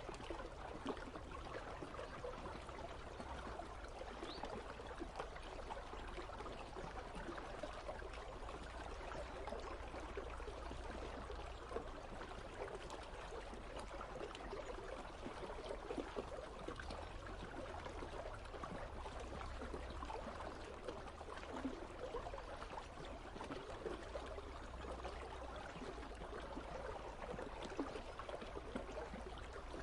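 River water running and trickling steadily, a dense bubbling and splashing texture with a low rumble under it.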